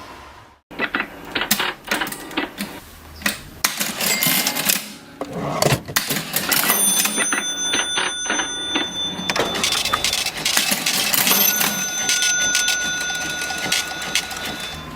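Vintage mechanical cash register being worked: dense clicking and clattering of keys and mechanism, with steady high ringing tones held for a few seconds at a time.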